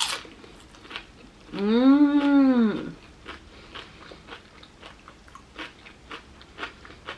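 A crisp bite into a crunchy baked chip topped with chickpea "tuna" salad, then crunchy chewing with many small crackles. About one and a half seconds in, an appreciative closed-mouth "mmm" that rises and falls in pitch is the loudest sound.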